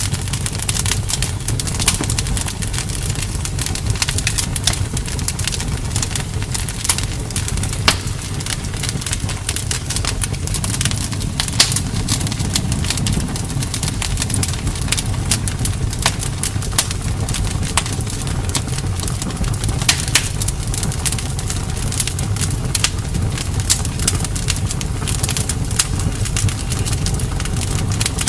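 Wood bonfire crackling, with many sharp irregular pops and snaps over a steady low rumble of the flames.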